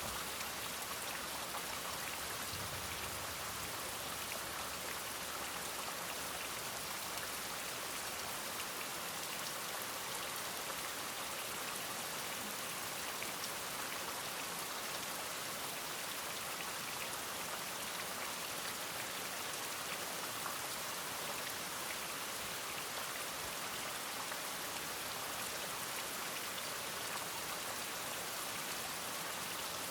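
Steady rain, an even hiss of many small drops falling, with no loud single event standing out.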